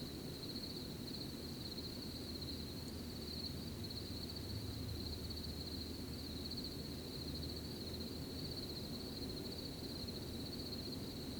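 Crickets chirping in a steady, continuous high trill, over a low, even rumble of outdoor night ambience.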